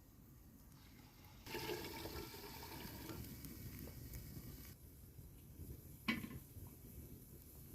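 Water pouring for about three seconds, then a single sharp knock.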